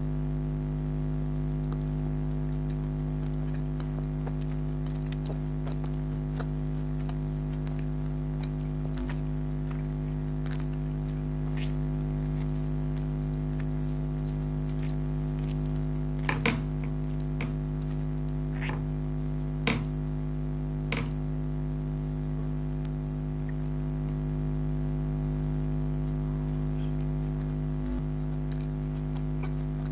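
Close-up eating sounds from a mukbang meal of chicken karahi and naan: scattered soft mouth and food clicks, with a few sharper clicks a little past the middle. A steady low hum runs underneath throughout.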